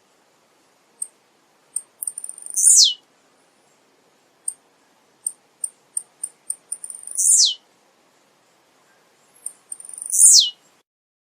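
Male blue-black grassquit (tiziu) singing. There are three short songs three to four seconds apart, each a quick, very high note sliding steeply down in pitch. Short high ticks fall between the songs.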